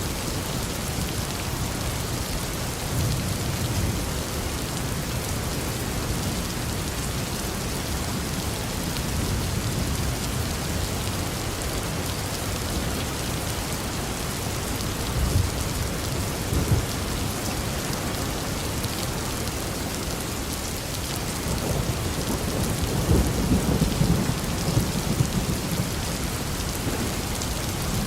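Steady rain falling in a thunderstorm, with low rolls of thunder rumbling up several times, the longest and loudest near the end.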